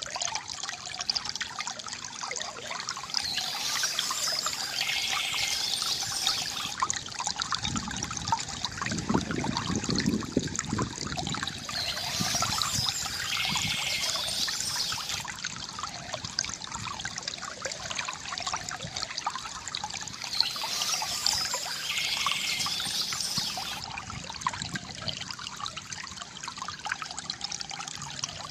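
Stream water trickling and splashing steadily. A brighter, higher sound returns three times, about every eight seconds, and a deeper gush of water comes in about a third of the way through.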